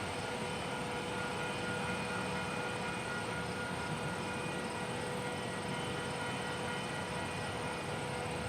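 A steady hum with several steady tones over a constant background rumble, unchanging throughout.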